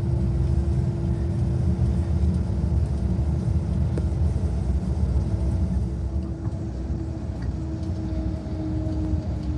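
Tour bus running steadily: a low engine and road rumble with a faint steady hum above it.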